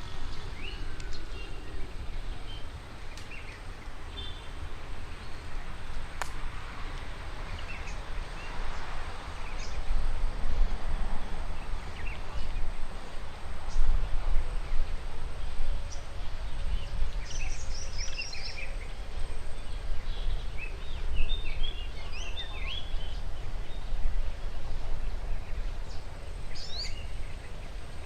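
Wild songbirds chirping and trilling in short bursts, busiest in the second half, over a steady low rumble.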